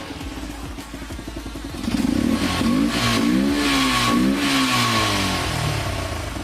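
Yamaha FZ16's single-cylinder engine idling, then blipped up and down in about three quick throttle revs around two to four and a half seconds in before dropping back to idle. The air filter box is tilted open, giving the intake a more bassy sound.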